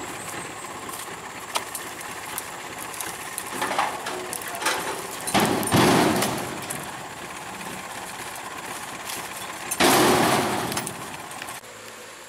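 Truck engine running, with three loud rushing bursts of noise about four, six and ten seconds in.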